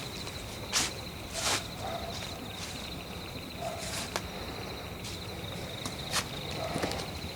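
Crickets chirping in a continuous high, pulsing trill, with a few scattered crunching footsteps or rustles on dry forest litter.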